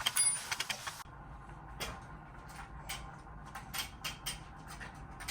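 Light, irregular clicks and taps from a new Globber kick scooter being handled, dense for about the first second and sparser after that.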